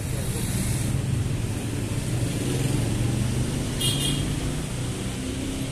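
A motor vehicle's engine running with a steady low hum, amid road traffic. There is a brief hiss about four seconds in.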